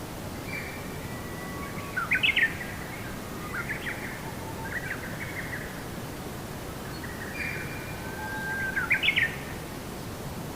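A songbird singing two phrases about six seconds apart, each a thin held note that ends in a few loud, quick notes. Softer twittering falls between them, over a steady background hiss.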